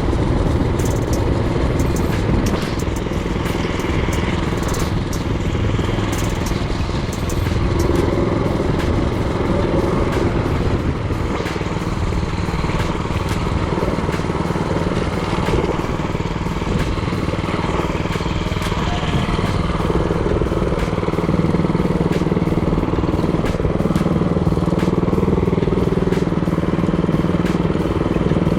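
Mini-bike's Predator 224cc single-cylinder engine running while riding, its pitch shifting up and down a few times. A few sharp clicks in the first several seconds.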